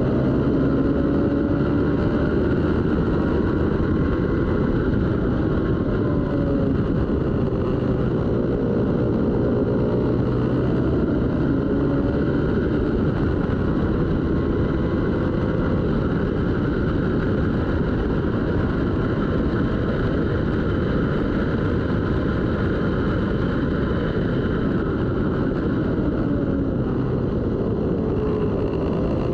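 Twin-cylinder race motorcycle engine running hard, its pitch rising and falling over several seconds at a time as it revs through the gears, at a steady loud level.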